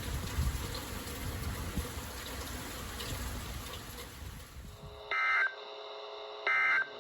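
Low rumbling outdoor noise, then a cut to a weather radio sounding two short, identical warbling data bursts about a second and a half apart: the coded alert header that opens a broadcast.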